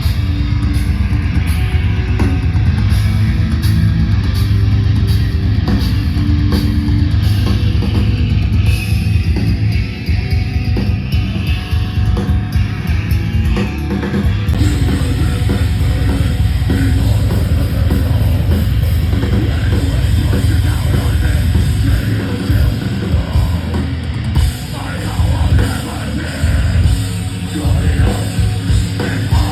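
A live heavy metal band playing loud, with distorted electric guitars, bass and pounding drums. The sound changes abruptly about halfway through and again near the end, as at cuts between stretches of the set.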